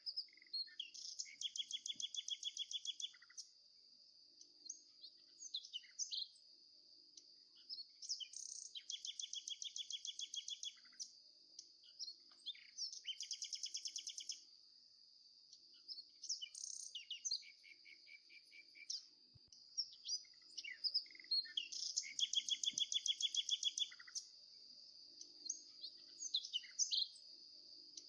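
Small birds chirping and singing in trills of rapid repeated notes, a run every few seconds, with scattered single chirps over a steady high-pitched whine.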